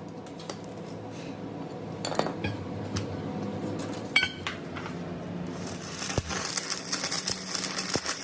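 Metal workshop tools and parts clinking against each other: a few separate knocks, one with a short ring about four seconds in, over a low hum. A high hiss comes in over the last few seconds.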